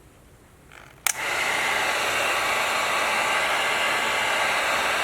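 Electric heat gun switched on with a click about a second in, then blowing steadily, shrinking heat-shrink tubing over butt-splice wire connectors.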